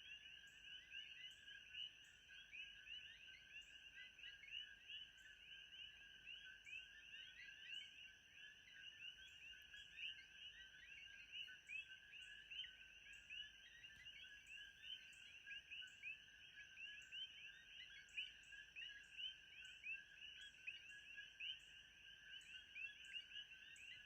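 Faint, dense chorus of many short, high chirping calls overlapping without pause, over a thin steady high tone.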